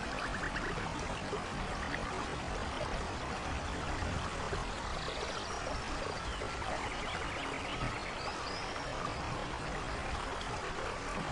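Steady rain falling on a rainforest, with scattered faint animal calls over it, among them a few short rapid trills.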